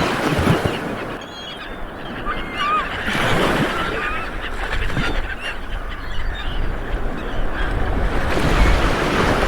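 Small waves breaking and washing up a beach, swelling and easing every few seconds, with birds calling overhead in many short chirps.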